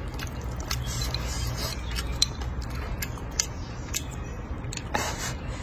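A person eating noodles close to the microphone: irregular sharp, wet clicks of chewing and lip smacking. There is a short hissing breath or slurp near the end.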